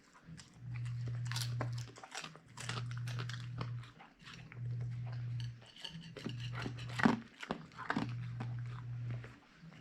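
Siberian husky crunching and chewing grilled mackerel, with many short sharp crunches. Under the crunching, a low steady rumble comes in about five or six stretches of roughly a second each, with short breaks between them.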